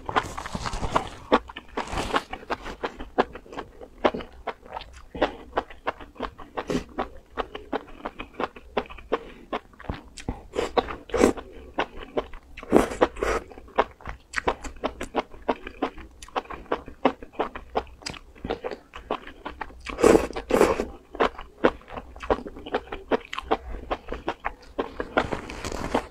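Close-miked eating: crisp crunching and wet chewing of lettuce and enoki mushrooms in chili sauce, in an irregular run of crackles, with a few louder wet slurps of the mushrooms.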